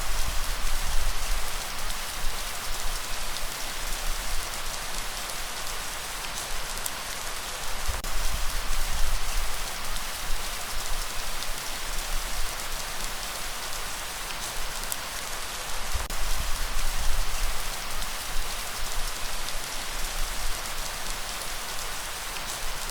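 Steady light rain falling, an even hiss of many drops, with a low rumble that swells and fades every few seconds.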